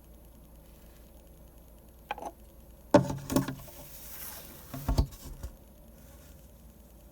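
Handling sounds at a drawing desk: a light click about two seconds in, a sharp cluster of knocks a second later, a short scrape, then another heavier knock with a dull thud near five seconds, as tools or paper are moved and set down on the desk.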